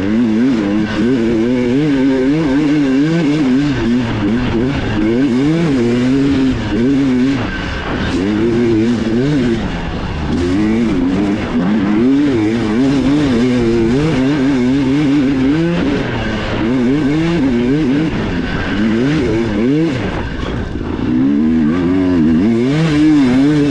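Dirt bike engine recorded on board during a race, revving up and down constantly as the rider goes on and off the throttle through the trail.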